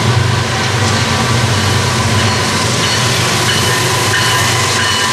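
BNSF diesel freight locomotives approach and pass on a mainline track, their engines running with a steady heavy low drone over the rumble and clatter of wheels on rail. The intermodal cars follow behind.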